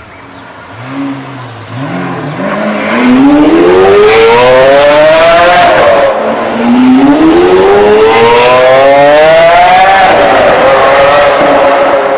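Lamborghini supercar accelerating hard, very loud: the engine note climbs steeply, drops briefly at an upshift about six seconds in, climbs again, then holds steady near the end.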